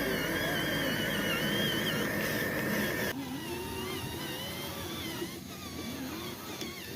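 Small electric motors of radio-controlled toy vehicles whining, their pitch wavering up and down as they speed up and slow down. A steadier tone and a low rumble cut off about three seconds in, and the whine carries on more quietly.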